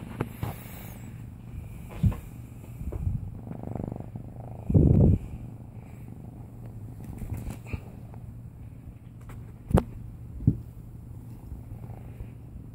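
A kitten purring steadily, with a loud dull thump about five seconds in, a smaller one about two seconds in, and two sharp clicks near the end.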